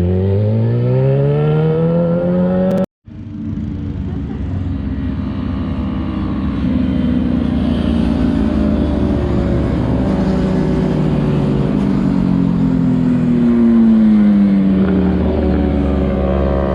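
Sportbike engines on a racetrack. One accelerates with a steadily rising pitch, then after a sudden cut several bikes run together. One drops in pitch as it goes by, and another revs up near the end.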